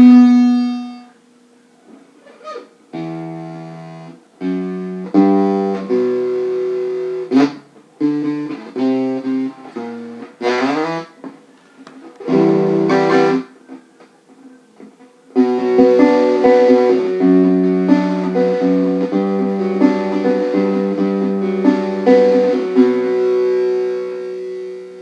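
Guitar-toned instrument played with single notes and chords. It includes a couple of fast sweeping runs a third of the way in, then a longer stretch of held, layered chords from about the middle on.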